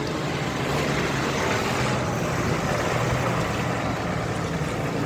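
Heavy vehicle engine running steadily with a low drone, under a continuous wash of road and traffic noise.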